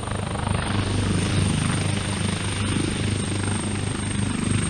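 Leonardo AW139 helicopter running, its twin turbine engines and rotor producing a steady loud noise with a constant high-pitched whine over it.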